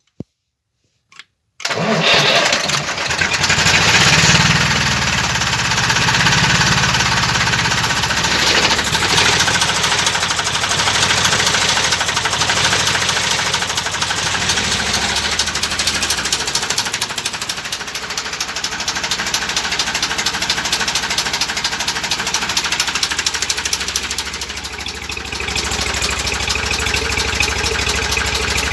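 IMT-533 tractor's three-cylinder diesel engine starting from cold: after a few faint clicks it fires suddenly about two seconds in, runs loudest for the first couple of seconds, then settles into a steady diesel idle.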